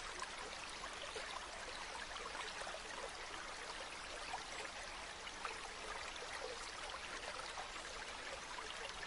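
Waterfall: a steady rush of falling water with small splashes and trickles through it.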